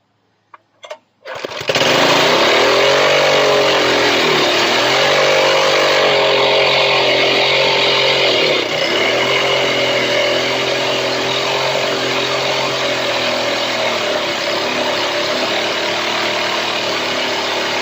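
Turbocharged 5.5 hp single-cylinder tiller engine catching about a second in and then running hard at high revs, fed carb cleaner. Its pitch wavers and dips briefly twice.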